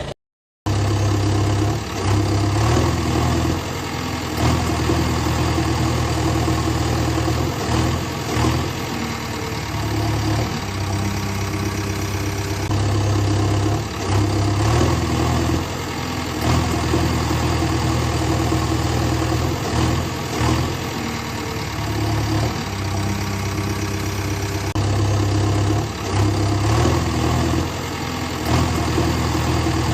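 Engine running near idle throughout, its pitch stepping abruptly between a few steady levels. There is one brief cut to silence right at the start.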